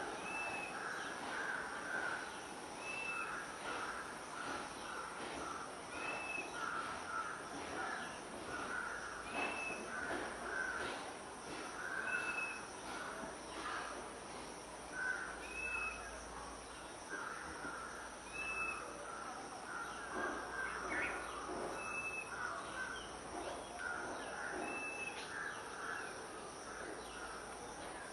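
Wild bird calling: a short, high arched note repeated about every three seconds over a continuous run of lower, harsh chattering notes.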